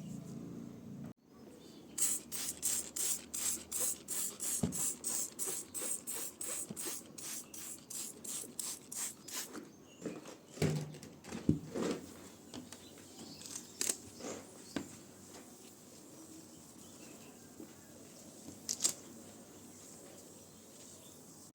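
Rhythmic scrubbing, a brush worked back and forth on the washing machine at about three hissing strokes a second for some seven seconds. Scattered knocks and handling clicks follow.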